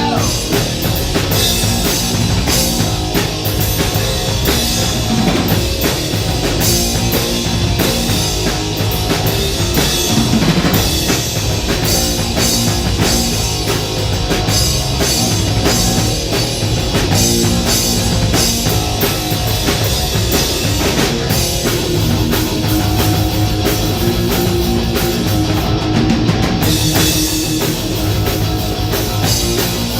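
Live rock band playing an instrumental section: distorted electric guitars and bass over a driving drum kit.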